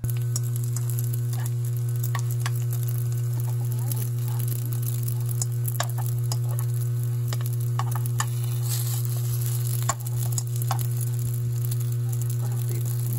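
Triangle japchae dumplings sizzling steadily as they pan-fry in oil in a nonstick pan, with occasional sharp clicks and pops. A steady low hum runs underneath.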